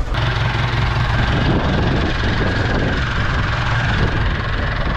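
Farm tractor engine running steadily, with a steady high whine over the engine noise.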